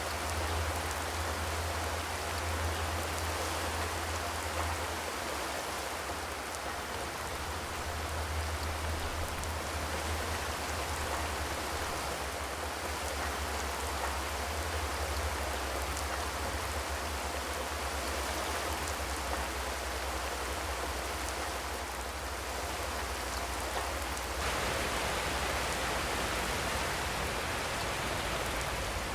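Steady rain falling on a zinc metal roof: an even, dense patter with no thunder, a little brighter in the last few seconds.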